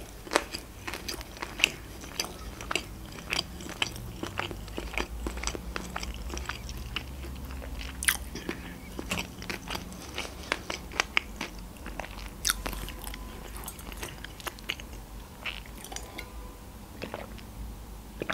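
Close-up mouth sounds of a person chewing a mouthful of sushi roll: many short, sharp, irregular wet clicks and smacks.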